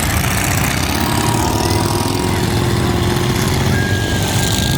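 Demolition derby truck engines running in a loud, steady din, with a thin high whine held for a second or two, twice.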